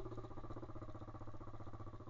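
Pit bike's small single-cylinder engine running at a steady speed, its firing pulses even and unchanging.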